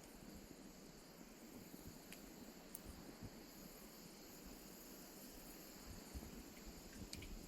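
Faint campfire burning: a low steady hiss with a few small crackling pops, about three in all. The firewood is not fully dried.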